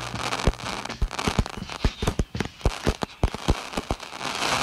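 Fireworks popping and crackling: a fast, irregular string of sharp cracks over a sizzling crackle that swells near the end.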